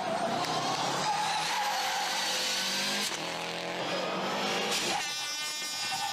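Subaru Impreza GC8 rally car's turbocharged flat-four engine running hard under load, with a rush of tyre and surface noise; its pitch climbs over a couple of seconds and then changes abruptly about five seconds in, as at a gear change or lift.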